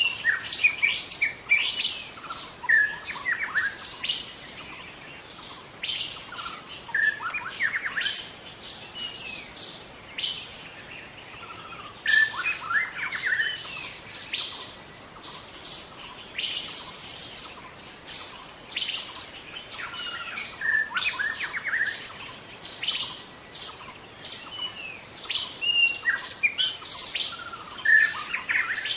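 Wild white-rumped shama singing: a long, varied run of whistled notes, sweeps and rapid chattering, coming in bursts with brief lulls.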